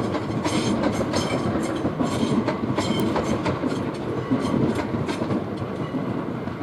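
Southeastern Class 465 Networker electric multiple unit rolling past, its wheels clacking over rail joints and points in a run of repeated clicks over a steady rumble.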